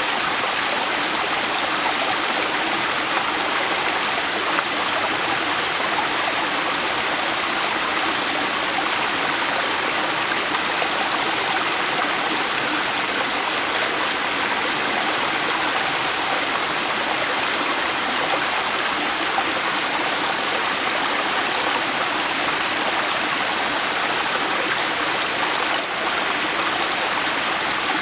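A river flowing: a steady, even rush of water with no change in level.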